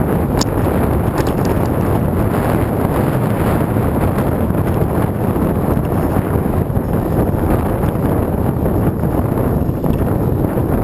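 Wind buffeting the microphone while riding, a steady loud rumble of wind with vehicle noise underneath.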